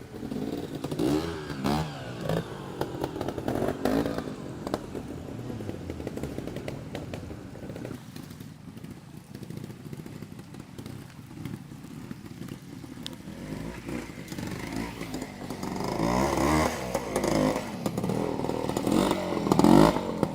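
Trials motorcycle engine being blipped and revved in short rising and falling bursts as the bike is ridden through a section. It is louder near the start and again toward the end, and quieter in between.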